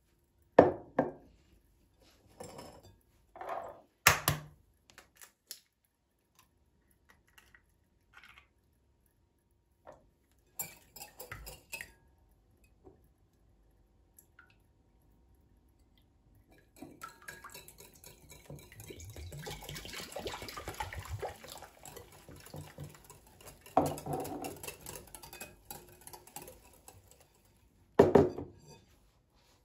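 Kitchen clatter: dishes and utensils clinking and being set down in scattered knocks, then a tap running for about ten seconds from past halfway, with a sharp knock near the end.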